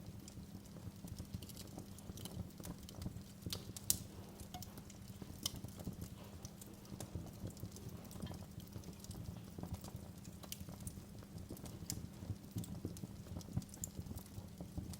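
Wood fire in a fireplace crackling: a steady low sound of burning with frequent sharp pops and snaps, the loudest about four seconds in.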